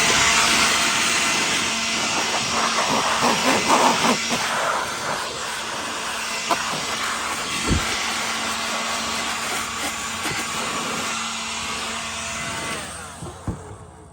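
Vacuum cleaner running with a steady whine and rush of air as dust is cleaned off stacks of magazines, with scattered rattles and a couple of knocks; it switches off near the end.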